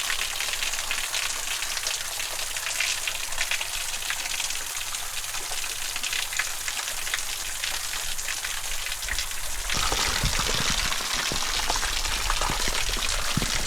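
Waterfall splashing down: a steady hiss of falling water. About ten seconds in, a low rumble joins it.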